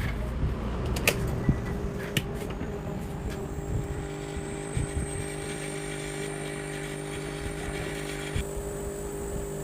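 A click, then a machine running at a steady, even pitch. Part of its low hum drops out near the end while the rest keeps running.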